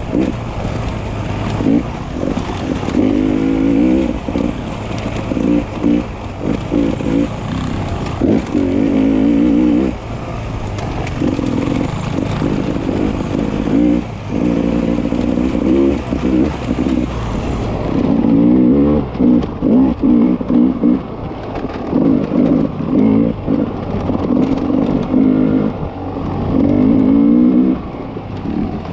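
Beta 300 RR two-stroke single-cylinder enduro motorcycle engine, revving up and dropping back over and over as the throttle is opened and closed in short bursts.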